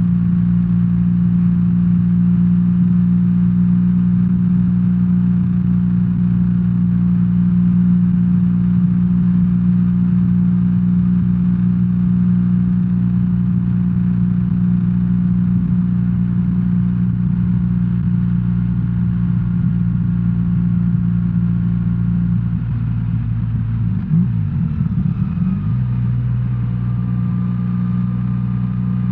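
BMW R1300R boxer-twin engine running steadily as the motorcycle rides along. About three-quarters of the way through, the engine note dips and wavers briefly, then settles back to a steady note.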